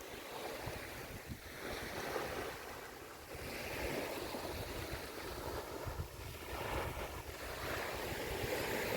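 Sea waves washing on a beach, swelling and easing, with wind rumbling on the microphone.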